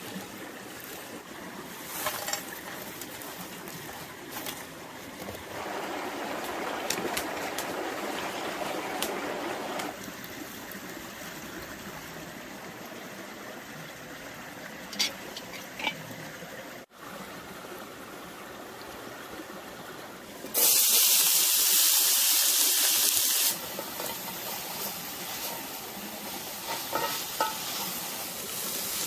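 Food frying in a pan, with a steady sizzle and scattered clicks and knocks of utensils. About two-thirds of the way through comes a loud hiss lasting about three seconds, which starts and stops abruptly.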